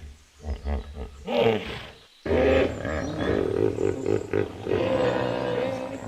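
Domestic donkey braying: a few short, low sounds, then a long, loud bray from about two seconds in.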